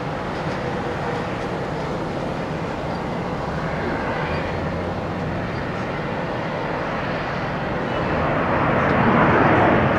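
Jet airliner engine noise, a steady rushing rumble that swells louder near the end as the aircraft comes closer.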